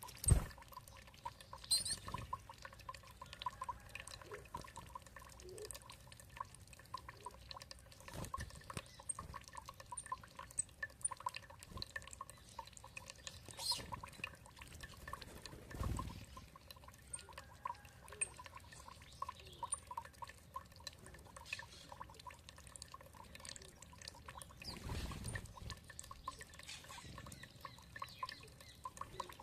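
Water dripping and trickling in many small irregular drops, with faint bird calls above it. There are a few louder, dull low thumps, about a second in, midway and near the end.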